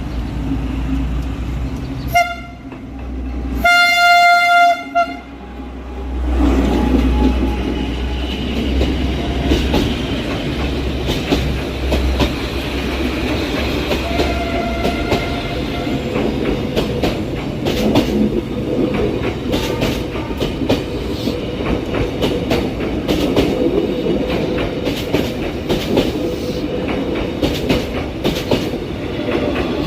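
Diesel-hauled train sounding its horn, a short blast about two seconds in and a longer one about four seconds in. It then runs past with a steady rumble and wheels clicking over the rail joints.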